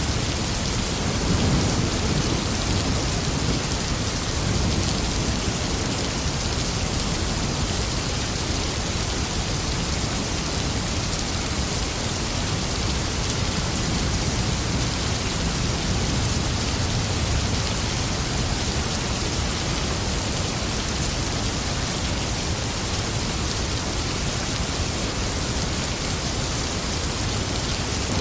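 Steady rain pouring down, with a low rumble of thunder underneath that is strongest in the first few seconds.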